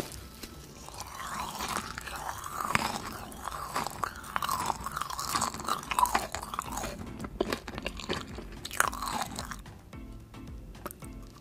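Close-up biting and chewing of a sugar-coated marshmallow candy: squishy chewing with a crackle of sugar crystals and a few sharper crunches, dying down near the end.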